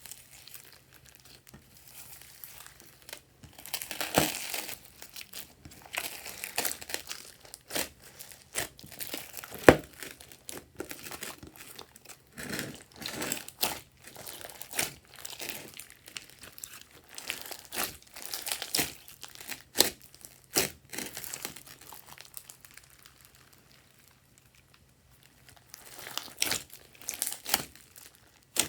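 Hands squishing and kneading glossy slime, making sticky crackling and clicking pops at irregular intervals, with a quiet pause a little over 20 seconds in.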